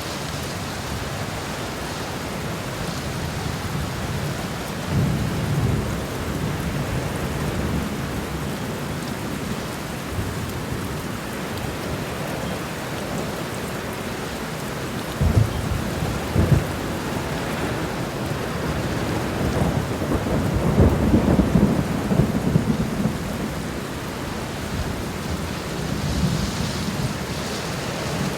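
Steady rain with rumbles of thunder: a swell about five seconds in, two short, sharp ones around the middle, and a longer roll a little later.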